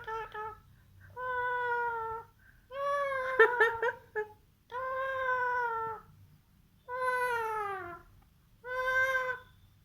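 A pet bird mimicking a cat: a series of about six meow-like calls, each about a second long with short pauses between. One call near the end slides down in pitch, and a few sharp clicks come in the middle.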